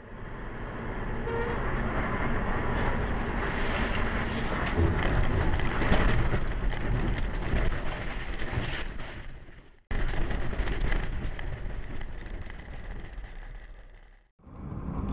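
Steady road and wind noise of a moving car heard through a dashcam. It cuts out abruptly about ten seconds in and fades away near the end, each time starting again at once.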